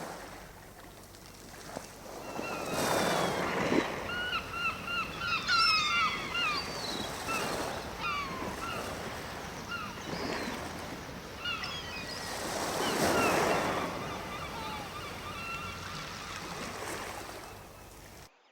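Waves washing onto the shore, swelling twice, with birds calling in quick series of short chirping notes over them.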